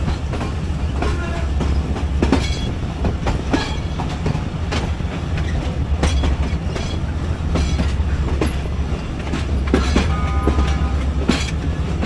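Train wheels clattering irregularly over rail joints and points over a steady low rumble of the moving train. A brief high squeal comes about ten seconds in.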